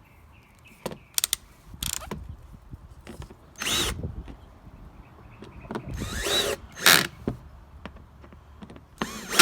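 Cordless drill-driver driving in the screws of a generator's back panel: three short runs, its motor pitch rising and falling each time, with clicks and knocks of the panel between them.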